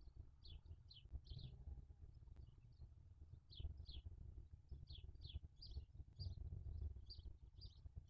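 Faint, quick high chirps from a bird, two or three a second and some in close pairs, over a low rumble.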